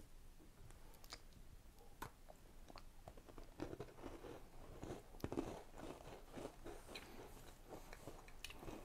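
Faint, irregular crunching and chewing of crisp biscuits, one of them a chocolate-cream bourbon biscuit, being eaten by two people.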